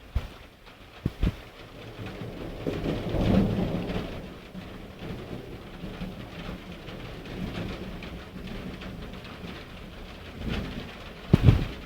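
Thunder rumbling during a heavy thunderstorm, swelling about three seconds in and then fading, over steady rain. A few sharp knocks cut through, the loudest pair near the end.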